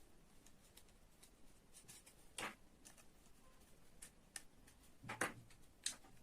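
Faint scattered clicks and light taps of small hard objects, with two louder short knocks about two and a half and five seconds in.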